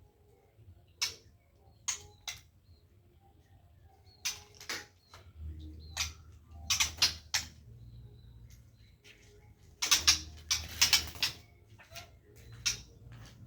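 Irregular sharp clicks and light clattering, with a dense cluster of rapid clicks about ten seconds in.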